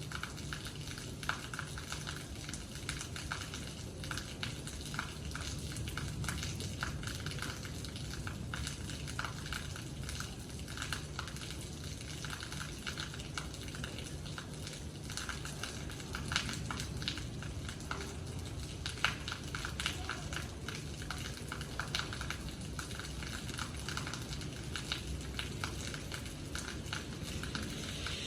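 Steady rain falling, with many small drops ticking irregularly over a constant hiss.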